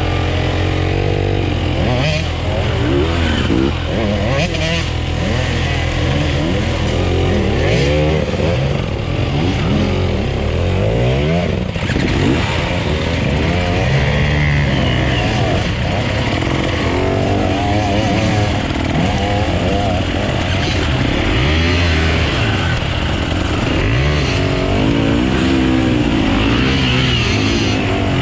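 Off-road dirt bike engines revving up and down, their pitch rising and falling again and again as the bikes ride, with several engines overlapping at times.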